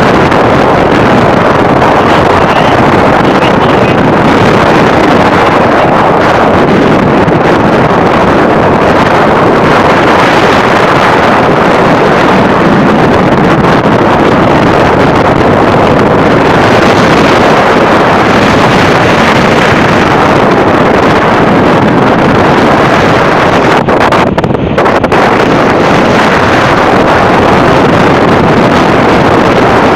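Storm wind blowing hard across a phone's microphone: a loud, steady rush of noise that briefly dips about 24 seconds in.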